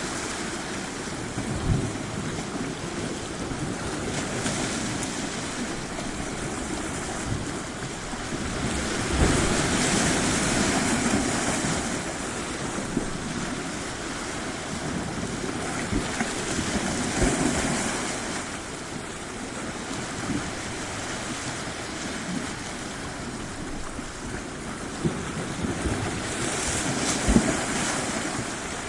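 Surf washing onto a shore: a steady hiss of water with three louder surges as waves break and run up the beach.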